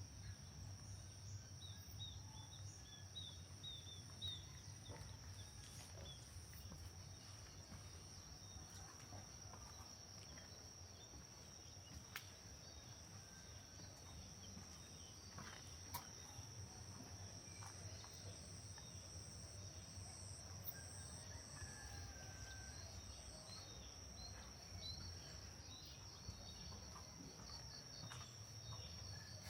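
Faint outdoor ambience dominated by a steady, high-pitched insect drone of crickets or similar. A few short bird chirps come in the first few seconds, with a low rumble and a few faint clicks underneath.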